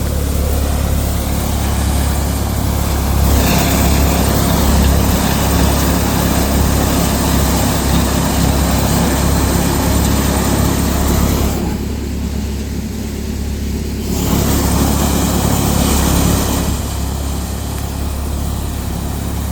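Mahindra DI 275 TU tractor's diesel engine running steadily under load, driving a thresher. Twice, for several seconds each, a loud rushing noise rises over the engine's hum.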